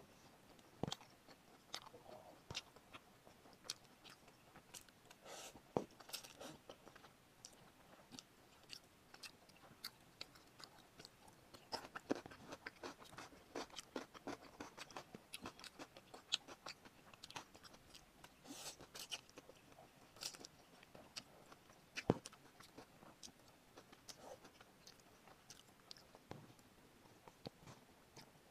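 Quiet close-up eating sounds: chewing of spicy cup noodles and fried chicken, with many short wet clicks and smacks at an irregular pace.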